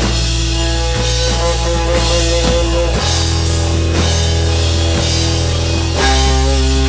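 Live rock band playing an instrumental passage on drum kit, electric guitar and bass, with the chords changing about every three seconds.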